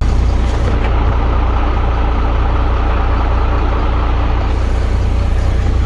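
International DT466 inline-six diesel engine of a 1982 S1900 dump truck running steadily, a loud, even low drone.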